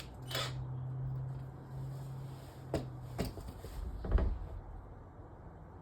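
Knocks and clunks of parts and tools being handled under a kitchen sink while it is being unclogged, the loudest a deep thump about four seconds in. A steady low hum runs underneath and stops with a click a little after three seconds.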